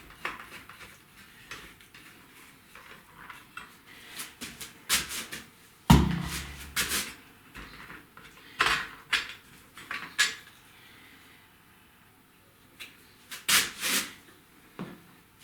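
Scattered knocks and metal clatter as an office chair and its parts are handled, with one heavy thump about six seconds in.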